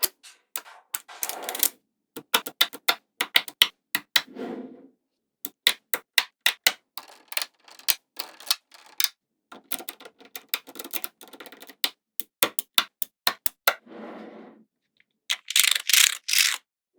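Small magnetic balls clicking sharply together as they are snapped into place one at a time, in quick irregular clicks. Now and then a cluster of balls rattles and slides together in a longer rustling burst.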